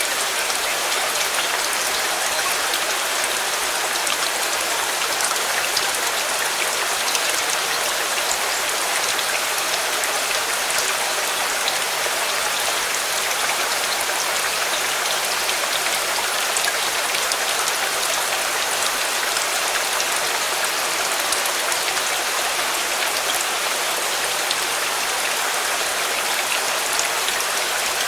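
Steady rain: an even hiss of falling water sprinkled with fine drop ticks, unchanging throughout.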